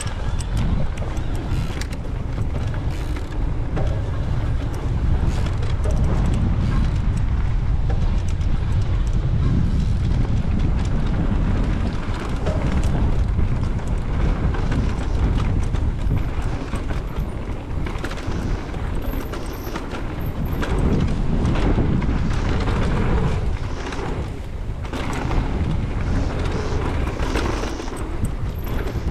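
Wind buffeting a mountain biker's camera microphone while riding a trail, with the tyres rolling over dirt and the bike clattering over bumps.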